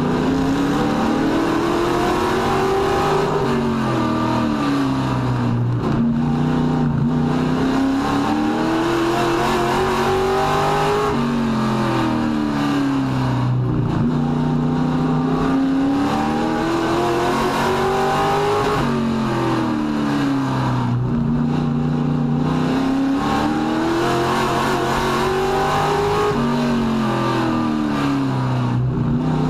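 Race truck engine running hard around a short oval: its pitch climbs for a few seconds as it accelerates, then drops sharply as the driver lifts off. The cycle repeats about every seven to eight seconds, twice per lap.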